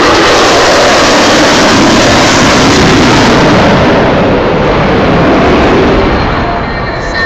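F-15E Strike Eagle's twin jet engines at high power as it pulls away low over the crowd: a very loud, dense rushing noise that eases off near the end.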